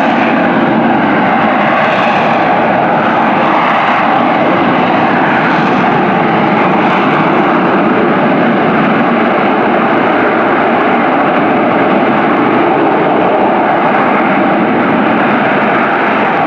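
AV-8B Harrier II's Rolls-Royce Pegasus jet engine running loud and steady.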